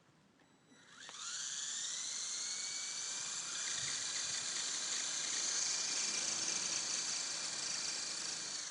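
Small electric model helicopter spinning up about a second in, with a rising whine that settles into a steady high-pitched whir as it lifts off and climbs in balance. The whir winds down near the end.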